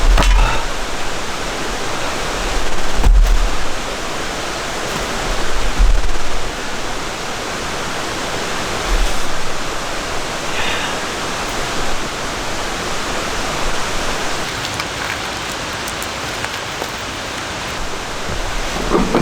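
Steady, dense hiss of heavy rain falling, with a few brief low rumbles in the first half.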